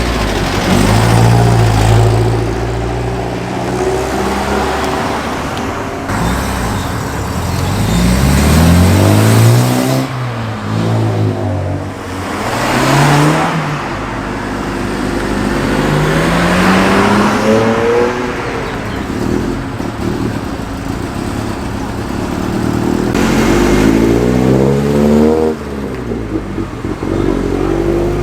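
Classic cars driving past one after another, each engine rising in pitch as it accelerates away through the gears, with the rush of a car passing close by now and then.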